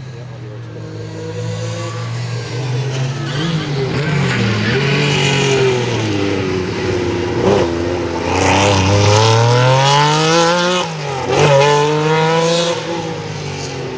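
Rally car engine accelerating hard through the gears, its pitch climbing and then dropping at each upshift, louder as the car comes closer. A sharp crack is heard at one shift near the end.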